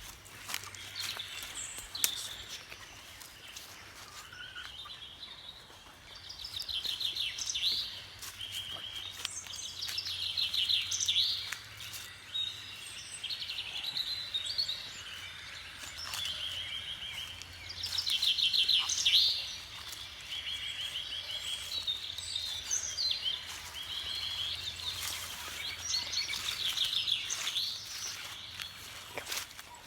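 A songbird singing short, fast-trilled phrases, repeated every few seconds, with scattered clicks and a faint steady low hum underneath.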